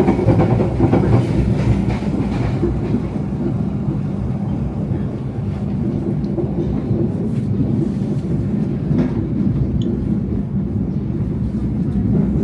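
Indonesian passenger train running along the track: a steady low rumble with a few faint clicks.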